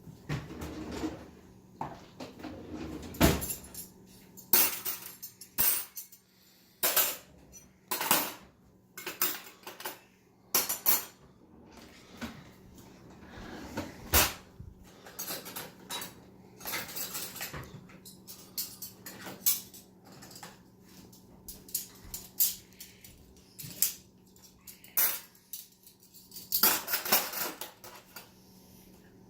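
Dishes and cutlery clinking and clattering as a dishwasher is unloaded, in many irregular sharp knocks and clinks one after another.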